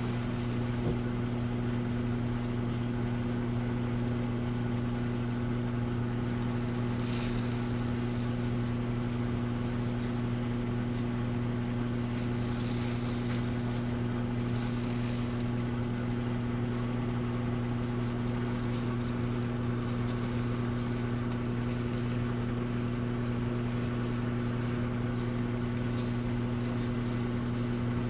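Electrolux Essential Care 11 kg washing machine running with a steady electric hum.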